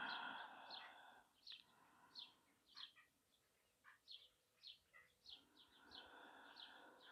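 Faint birds chirping: short, high notes repeated irregularly, about two a second.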